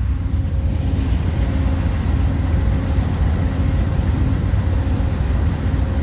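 Train going by: a steady, loud low rumble with a faint hiss rising about a second in.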